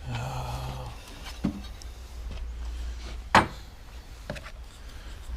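Things being handled and moved while sorting: a brief scrape at the start, a light knock, then one sharp knock about three and a half seconds in, over a low steady hum.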